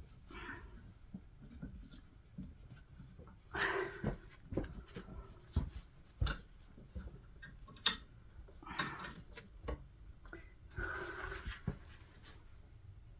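Hand tools working at a stubborn fitting on a potter's wheel: scattered metal clicks and knocks with several short scraping rubs. The sharpest click comes about eight seconds in.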